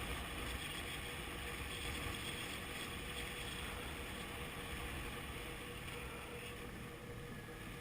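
Honda CB500F parallel-twin motorcycle being ridden at a steady pace, heard faintly as a steady engine drone mixed with wind rush.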